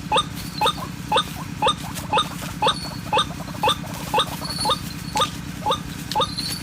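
Repeated 'ruak-ruak' calls of a white-breasted waterhen, as played on an MP3 lure: short, sharply rising notes, evenly about two a second, over a steady low hum.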